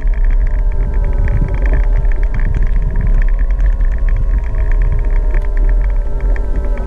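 Gogoro 2 electric scooter riding, its motor giving a steady whine over a heavy low rumble; the whine drops away at the very end.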